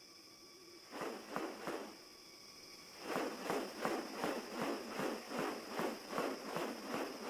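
Footsteps rustling through forest leaf litter: a couple of steps about a second in, then a steady walk of about three steps a second from about three seconds in, over a continuous high insect drone.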